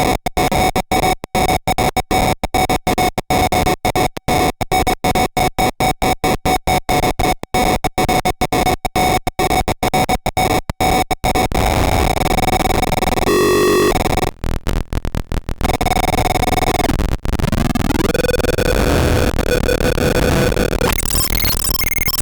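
Paratek SATURN Eurorack noise module, built on four square-wave oscillators mixed through logic, putting out harsh square-wave noise with held tones. For about the first eleven seconds it stutters with rapid, irregular cut-outs. It then runs on as a continuous dense buzz with a couple of brief drop-outs, and shifts to a higher, busier pattern near the end.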